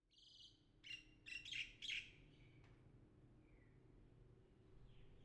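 Faint bird chirps: one short high call at the start, then a quick cluster of chirps about one to two seconds in, with a low hush after.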